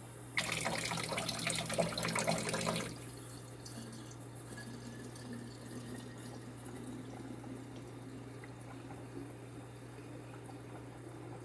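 Tap water running into a plastic spray bottle to fill it, a loud even rush for about two and a half seconds that then drops sharply to a much quieter level.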